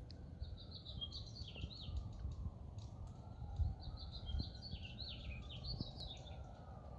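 A songbird sings two quick warbled phrases, one near the start and one about four seconds in, over a steady low rumble of wind.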